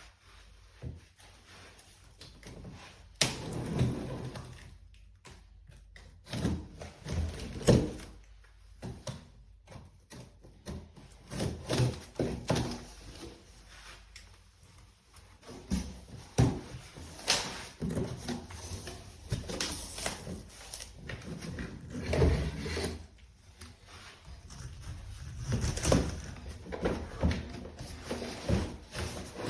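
Irregular knocks and thumps, a dozen or so spread unevenly, with quiet gaps between them; no vacuum motor is heard running.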